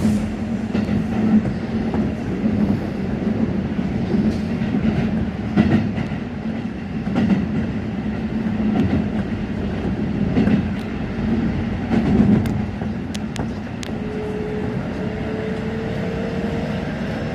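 Japanese train running on rails: a steady rumble with a clack of the wheels over rail joints about every second and a half. A faint rising whine comes in near the end.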